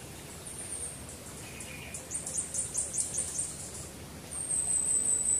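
Small birds calling in thin, very high-pitched notes, given in quick series of about six notes a second, with a louder, longer series starting near the end. A short, lower call comes in between.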